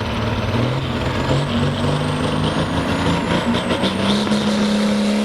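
Turbocharged diesel pulling tractor engine under load at the start of a sled pull, its revs climbing and then holding high and steady. The turbocharger's whistle rises slowly above it.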